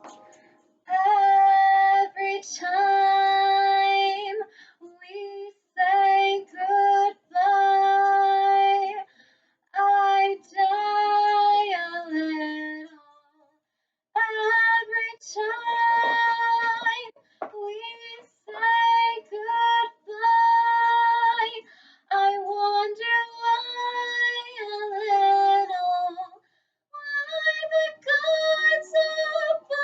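A child singing a melody in phrases of held notes, with short breaks between the phrases.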